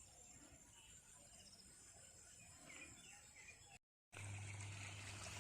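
Faint rural ambience near silence, with a few soft bird chirps and a steady high insect buzz. The sound drops out completely for a moment near the end, then comes back with a low steady hum.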